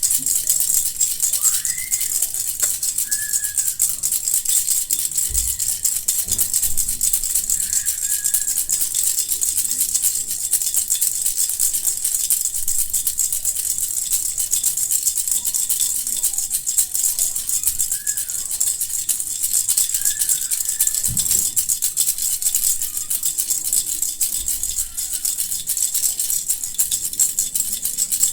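Bee-shaped baby rattle shaken steadily, a continuous fast shake-shake of the beads inside.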